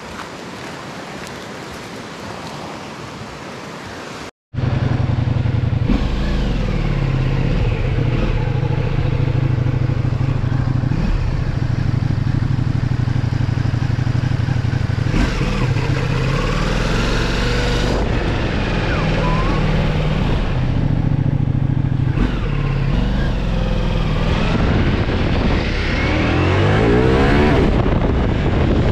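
Wind rush for about four seconds, then, after a short break, a Ducati Multistrada V4 motorcycle engine running under way with wind noise, its pitch rising and falling several times as it accelerates and eases off, with a longer rise near the end.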